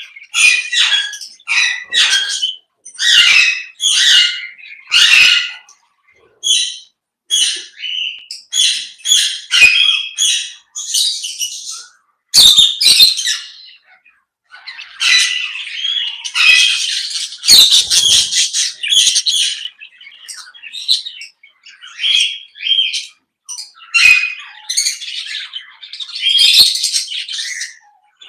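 A mixed flock of aviary parrots squawking and chirping: many short, shrill calls overlapping one another, with a few brief lulls.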